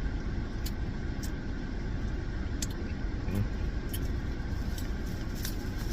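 Steady low rumble of an idling car heard inside the cabin, with a few light clicks scattered through it.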